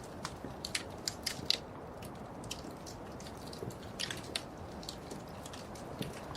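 Wood fire crackling in a fireplace: irregular sharp pops and snaps, some louder than others, over a soft steady rush of the burning fire.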